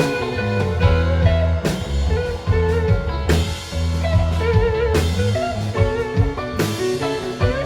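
Live rock band playing an instrumental jam: electric guitar lead with bending, vibrato notes over bass and drum kit.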